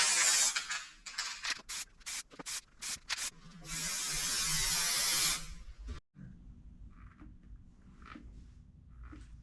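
Hissing spurts: a loud hiss at the start, a string of short sharp ones, then a steady hiss lasting about two seconds that cuts off; faint light knocks follow after a sudden drop.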